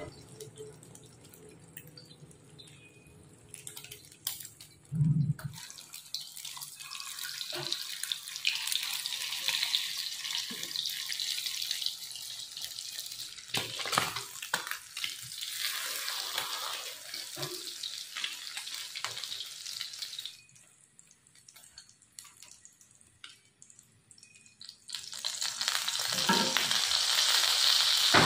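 Egg omelette frying in oil in a cast-iron pan, a steady sizzle with a few knocks and scrapes of the spatula against the pan. The sizzle drops away for a few seconds and then builds again near the end.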